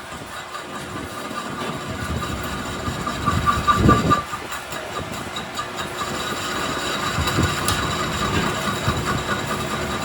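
A machine running steadily, with a steady whine over a hiss and a louder surge about four seconds in.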